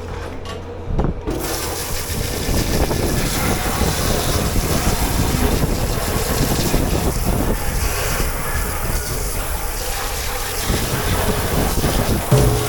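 Steady rush of water spraying in a commercial dish pit, starting about a second in, over a low steady machine hum.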